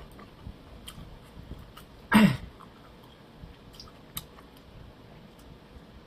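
A person chewing food with small, soft mouth clicks, and one short, loud noisy burst about two seconds in.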